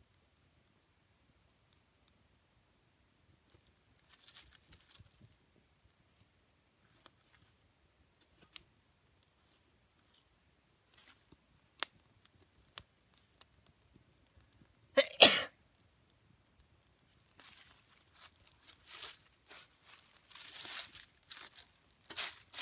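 Scattered faint clicks and snaps, then a single short, loud vocal burst from a person, like a cough, about fifteen seconds in. Irregular rustling and crunching follows near the end.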